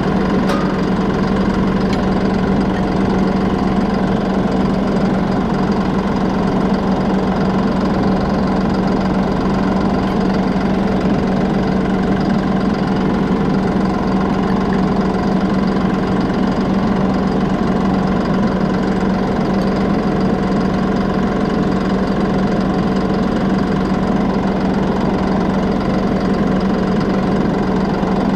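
John Deere 5075E tractor's diesel engine idling steadily with a constant hum.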